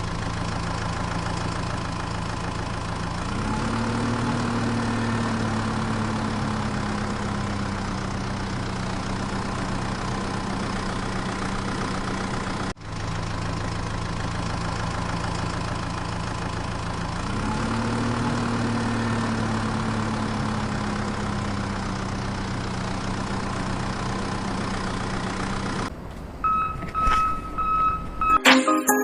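Tractor engine running at idle, revving up briefly and slowly settling back, the same pattern coming twice with a short dropout between. Near the end the engine sound stops and a short high electronic tone follows.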